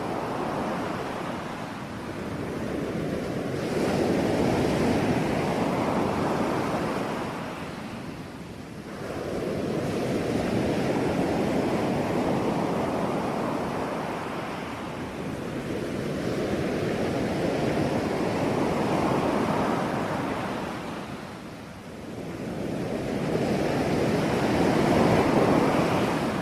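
Sea waves breaking on a shore: a steady rush of surf that swells and eases in four surges, each lasting several seconds, with short lulls between.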